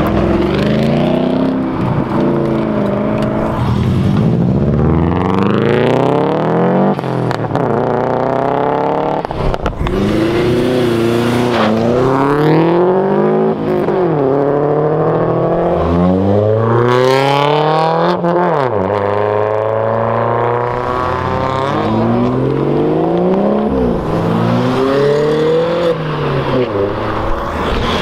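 Performance cars accelerating hard away one after another, each engine revving up through the gears, its pitch rising and then dropping back at every gear change.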